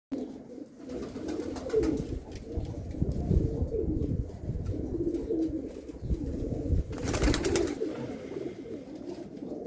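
Domestic pigeon cooing over and over in low, wavering calls, with a short noisy rustle about seven seconds in.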